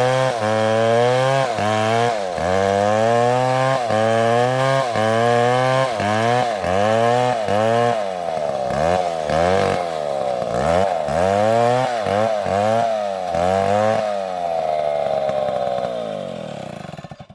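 Two-stroke chainsaw cutting wood, its engine pitch dipping and recovering again and again as the chain bites under load, the dips coming faster from about halfway. Near the end the engine speed falls away and the sound dies out.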